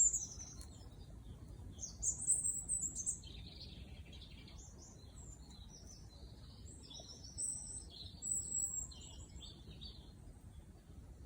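Small songbirds chirping and trilling in bursts of short, high calls, over a faint low background noise.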